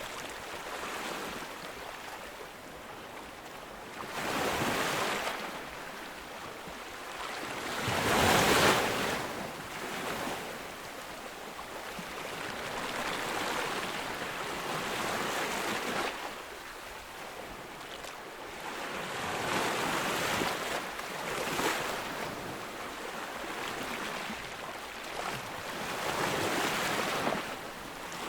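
Ocean surf breaking on a beach, a steady wash of water with waves surging louder every few seconds, the biggest about eight seconds in.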